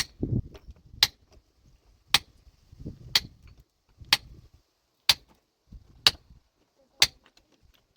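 Metal hand tool striking rock to break it, with sharp ringing blows at an even pace of about one a second. There is a duller low rumble just after the first blow and again around three seconds in.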